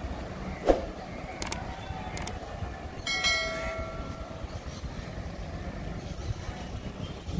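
Vande Bharat Express electric train set running away down the line, a steady low rumble of the rake on the rails. A sharp knock comes about a second in, and a brief horn-like tone a little after three seconds.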